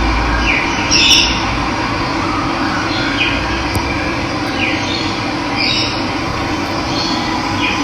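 Steady rush of running water, with a bird giving short descending chirps every second or two above it.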